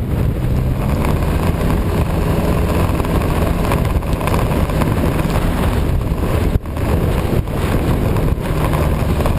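Snowmobile engine running at a steady speed under way, with wind rushing over the microphone. The sound dips briefly about two-thirds of the way through.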